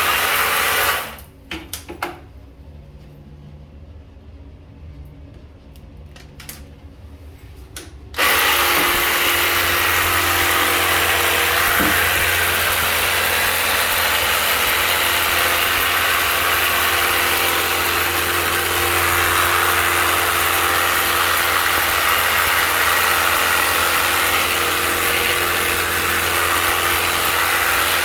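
High-pressure washer running, its pump motor humming under the hiss of the water jet. It cuts out about a second in, leaving a few clicks, then starts again about eight seconds in and runs steadily.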